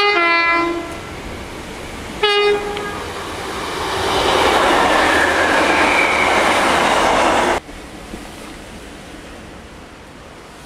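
Two-tone horn of an approaching First Great Western diesel multiple unit: one blast that drops from the high note to the low one, then a short second blast about two seconds later. The train then passes close by with a loud rush of wheels and engine that cuts off suddenly about seven and a half seconds in, leaving a quieter steady background.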